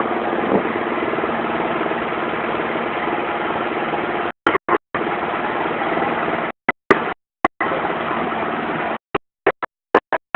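Motorcycle engine idling steadily, the sound cutting out abruptly to dead silence several times in the second half.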